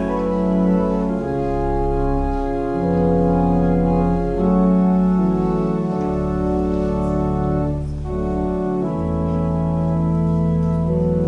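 Organ playing slow sustained chords over a held bass line, the chords changing every second or two.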